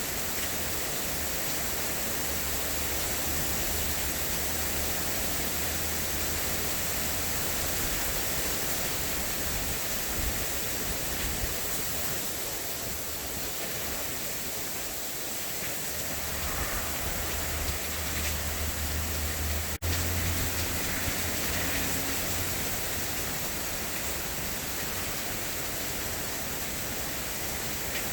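Heavy rain falling steadily in a thick, even hiss, with a low rumble that comes and goes under it. The sound drops out for an instant about two-thirds of the way through.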